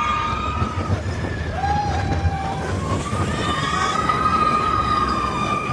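Big Thunder Mountain Railroad mine-train roller coaster running along its track with a steady rumble, its wheels squealing in long high tones that glide up and hold, loudest near the start and again from about halfway through.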